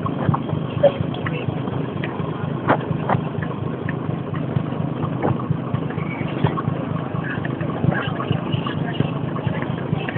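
Barge's engine running steadily, a low drone with scattered knocks and clatters over it.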